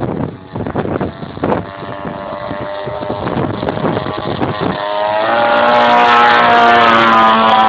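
Desert Aircraft DA-100 twin-cylinder two-stroke gasoline engine of a large RC Yak 54, running steadily, then throttled up about five seconds in, rising in pitch and getting louder. Gusty wind noise on the microphone in the first second or so.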